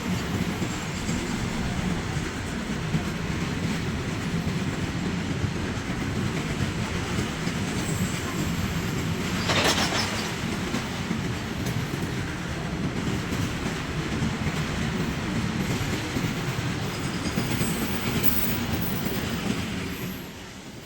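Indian Railways freight train's wagons rolling past, wheels clacking over the rail joints in a steady run of noise. A brief louder noise comes about halfway, and the sound falls away near the end.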